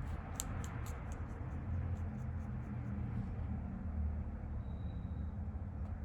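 Small scratching strokes rubbing across a painting surface, with a few sharp clicks in the first second, over a steady low hum.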